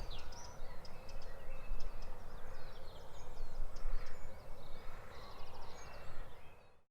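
Outdoor ambience: a low rumble with faint scattered bird calls and chirps, including a brief fast trill about five seconds in, fading out near the end.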